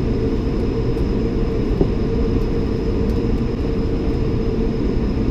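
Steady cabin noise inside a Bombardier CS300 airliner taxiing with its Pratt & Whitney PW1500G geared turbofans at idle: an even low rumble with a faint thin high whine.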